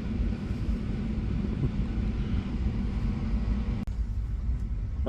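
Steady low rumble and hum inside a regional train carriage, with a brief sudden break a little under four seconds in.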